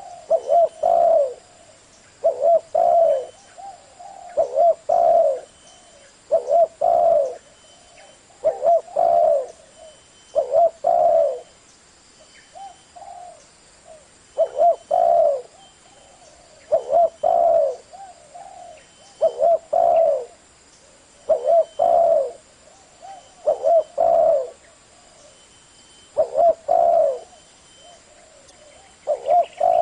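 Spotted dove cooing in the deep 'giọng thổ' voice used to lure wild doves. The same phrase of several low coos repeats about every two seconds.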